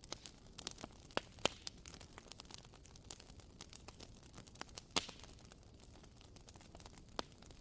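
Wooden wick of a WoodWick candle crackling: small irregular pops and snaps, a few louder ones about a second in, around five seconds in and near the end.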